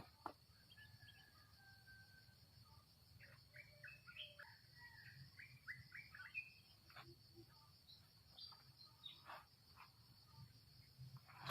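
Faint birds chirping in short notes, busiest in the middle, over a steady high insect trill.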